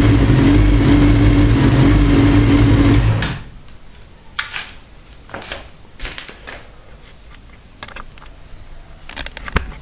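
Four-cylinder race car engine running at a steady speed, then switched off about three seconds in, its sound stopping abruptly. After that there are only scattered light clicks and rustles.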